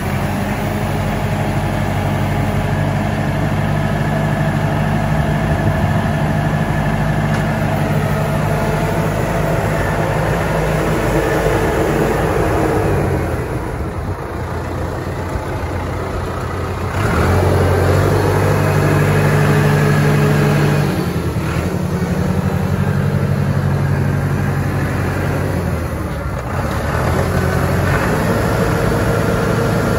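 Landini Powerfarm 100 tractor's diesel engine running steadily, its engine speed easing off about halfway through, then picking up louder a few seconds later and dipping briefly again near the end.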